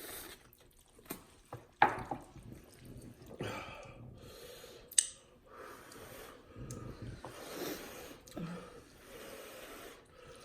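Wet slurping and chewing of cheesy ramen noodles, with breathy mouth sounds and two sharp clicks, about two and five seconds in.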